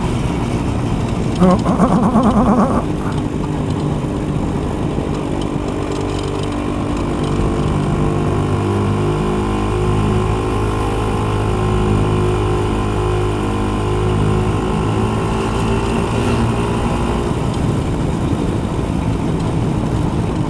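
Motorcycle engine running under way, with wind and road noise, its pitch shifting in steps. A brief louder rush comes about a second and a half in.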